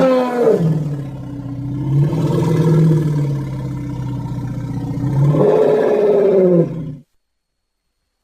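A Sumatran elephant giving one long, deep, pitched call. The pitch drops at the start, holds fairly steady, then swells up and falls away again. The call cuts off abruptly about seven seconds in.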